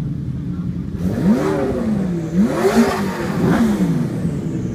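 Sports car engine idling, then revved in three quick blips, the pitch rising and falling with each before it settles back to idle.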